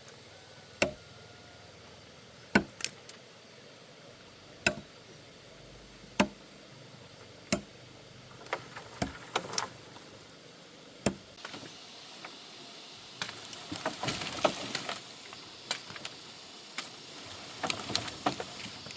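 Wood being chopped by hand with a bladed tool: single sharp strikes, about one every one and a half to two seconds at first, then quicker and more irregular strokes. Around two thirds of the way through, a burst of rustling, like leaves and twigs shaking, runs under the strokes.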